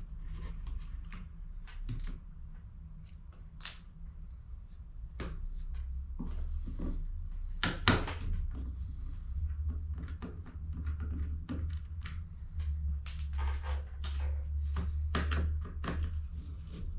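Irregular clicks and knocks of HP CE285A toner cartridges and their plastic parts being handled on a workbench, with one sharper knock about eight seconds in, over a steady low hum.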